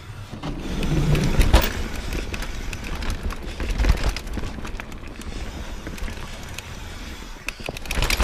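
Mountain bike rolling along a dirt and rock trail: tyre noise with frequent clicks and knocks from the bike over bumps, and a low rumble from wind on the microphone.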